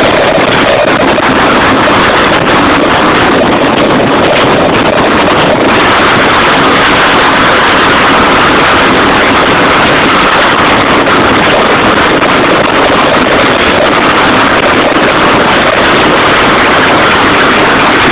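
Loud, steady running noise of a vehicle in motion, with wind buffeting the microphone.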